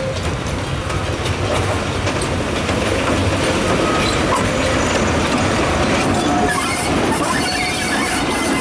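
Vintage electric locomotive EC 7 and its train of wagons rolling past close by: a steady rumble and clatter of steel wheels on rail that grows louder about three seconds in, with faint wheel squeal in the second half.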